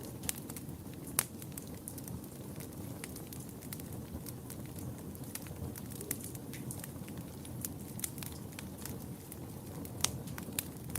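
Fire burning in a fireplace: a steady low rumble of flames with irregular sharp crackles and pops. The loudest pops come about a second in and twice near the end.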